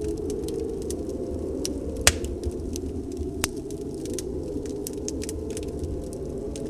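Wood fire in a fireplace crackling, with scattered sharp pops, the loudest about two seconds in, over a steady low rush of snowstorm wind.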